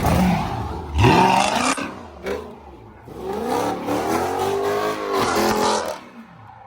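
Dodge Scat Pack's 6.4-litre (392) HEMI V8 being revved several times, its pitch swinging up and down with each rev. The longest rev comes in the second half, and the sound dies away near the end.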